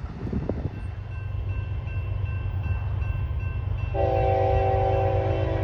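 A train approaching with a low rumble that grows louder. About four seconds in, its horn starts sounding a steady multi-tone blast that is still going at the end.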